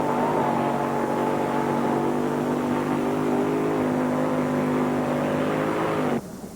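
1800-pound mini modified pulling tractor with a 572 cubic inch Rodeck V8, running hard at high, nearly steady revs under load during a pull. The sound cuts off abruptly near the end.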